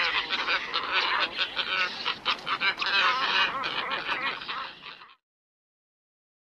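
Black ibis calling: many dense, overlapping harsh calls. The sound cuts off abruptly about five seconds in, leaving dead silence.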